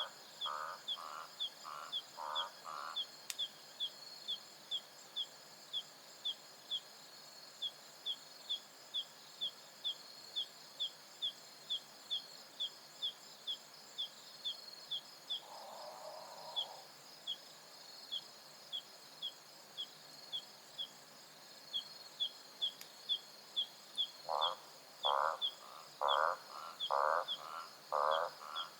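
African savanna night chorus: a steady high trilling of insects with a short high chirp repeated about twice a second. A lower pulsed call, also about twice a second, sounds for the first couple of seconds and comes back near the end, louder.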